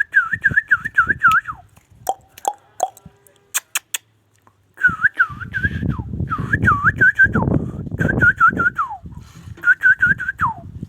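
Whistled phrase repeated five times, each a quick run of scooping notes ending in a falling glide. Sharp clicks come between the first and second phrases, and low rustling noise lies under the middle ones.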